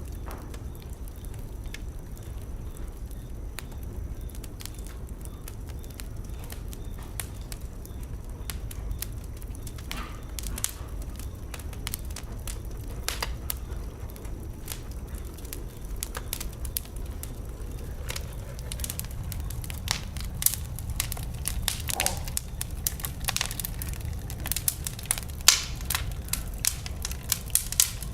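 Wood fire burning in a fireplace: a steady low rumble of flames with scattered sharp crackles and pops, which come thicker and louder in the last third.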